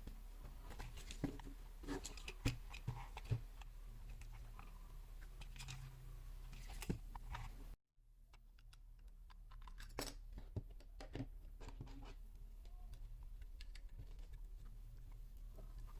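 Irregular clicks, taps and rustles of objects being handled, over a steady low hum; the sound cuts out for a moment about eight seconds in.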